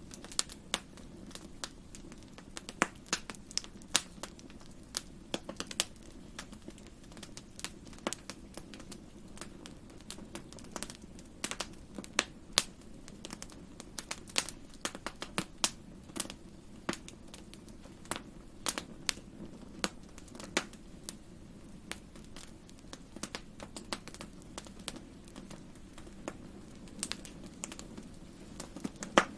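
Wood campfire crackling: irregular sharp pops and snaps of burning wood, several a second, over a steady low rumble of the flames.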